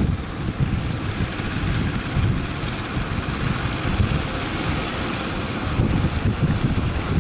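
Strong wind buffeting the microphone in an uneven low rumble, over a steady rush of waves and surf.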